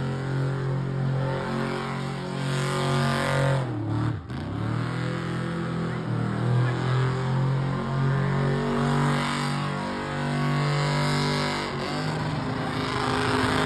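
A burnout competition vehicle's engine revving hard and held at high revs. About four seconds in it drops off the throttle briefly and its pitch falls, then climbs straight back up and stays high with small surges.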